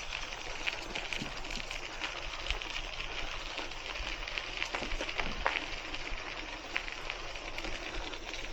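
Hiboy C1 e-bike tyres rolling along a park path, a steady crackling hiss with many small ticks.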